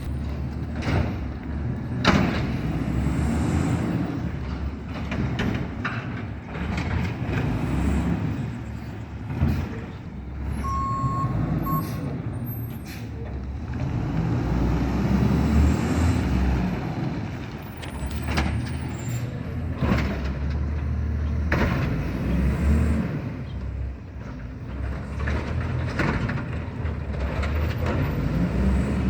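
Garbage truck with an Amrep automated arm, its engine running and revving up and down several times, with sharp knocks scattered throughout. A short single beep sounds about eleven seconds in.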